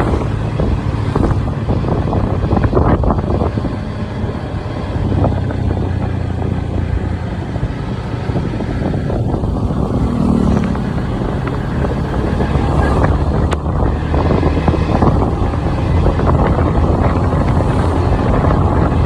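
Motorcycle engine running steadily as the bike rides along, with wind noise on the microphone.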